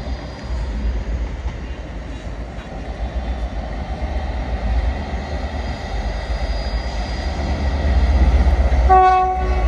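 A train rumbling steadily at the station, growing louder near the end, when its horn gives one short single-note toot.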